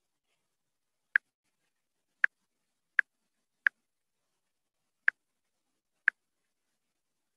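Six sharp, short clicks at uneven intervals, with almost nothing heard between them.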